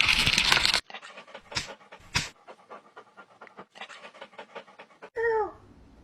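Dog panting in quick, rapid breaths, after a loud burst of noise that cuts off abruptly near the start. A short call falling in pitch comes near the end.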